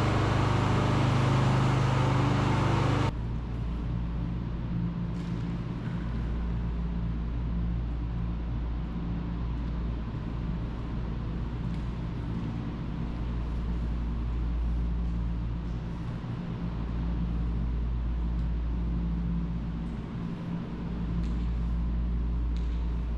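Pressure washer spraying, a loud hiss that cuts off suddenly about three seconds in when the spray stops. The pressure washer's engine keeps running with a steady low drone afterwards.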